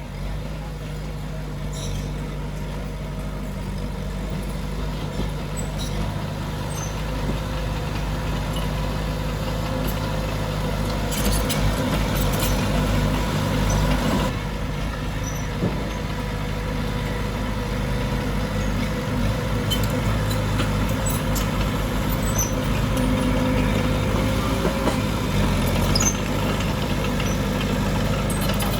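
Diesel engine of heavy earthmoving machinery running steadily, with a faint held whine and a few metallic clanks near the middle.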